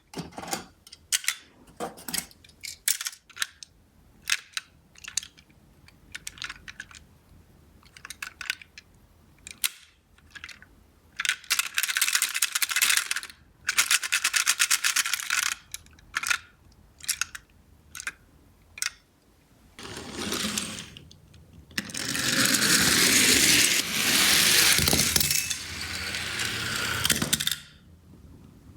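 Small toy cars clicking and clattering against each other and the cardboard. Several stretches of rolling noise lasting a few seconds each, the longest starting about 22 seconds in, as cars run down a cardboard slope.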